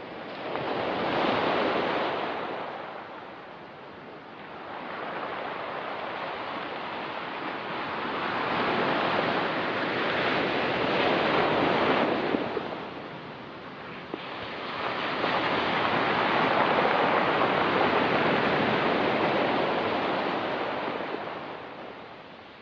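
Ocean surf breaking on a rocky pebble beach: three waves surge in and wash back, each swelling and fading over several seconds.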